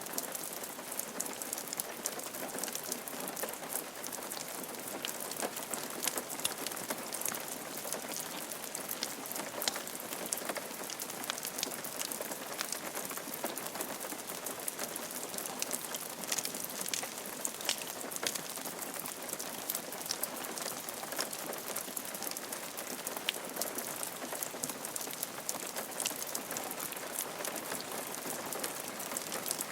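Steady rain falling on a roof: a constant hiss with many small, sharp drop taps.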